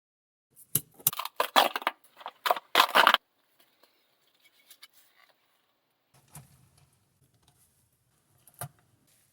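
Toy car packaging being handled and opened: a rapid cluster of crinkling and clicking for about two and a half seconds, then a few faint clicks and one sharper click near the end.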